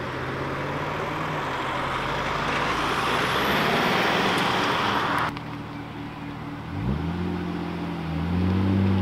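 A van passes close by with a swelling rush of tyre and engine noise that cuts off abruptly about halfway through. Then a Mk3 Toyota Supra's engine idles low, with one quick rev blip and a louder, steady engine note near the end as it pulls out.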